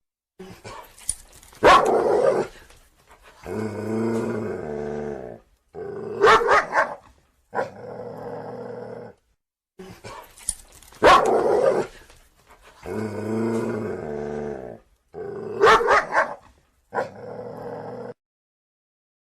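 Dog sound effect: sharp barks and a long drawn-out growl. The same sequence plays twice in a row.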